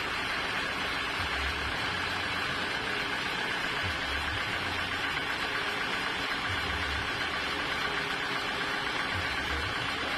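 Sawmill machinery running steadily: a continuous whirring hum with a few constant tones, and a low rumble that comes and goes every second or two.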